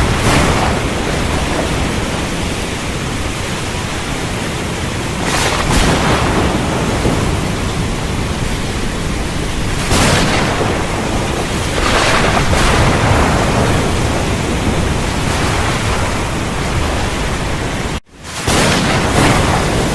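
Heavy rain pouring steadily, with several swells of rolling thunder. Near the end the sound cuts out for an instant and comes straight back.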